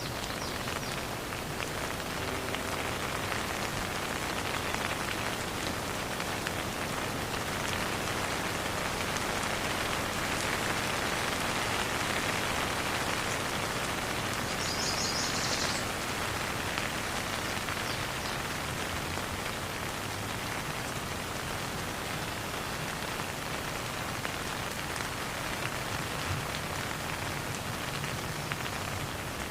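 Steady rain falling and pattering on surfaces, swelling slightly in the middle, with no thunder. A short high-pitched sound cuts in about fifteen seconds in.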